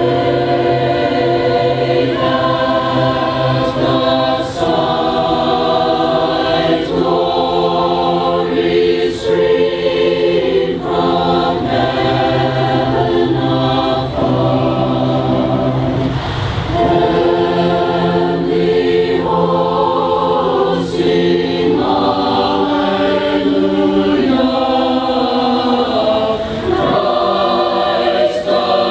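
Mixed community choir singing a cappella in harmony, holding chords that change about once a second.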